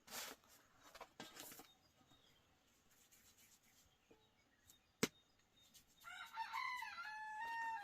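A rooster crowing once near the end, a call of about two seconds that steps in pitch. Before it come a few brief rustling noises and one sharp click about five seconds in.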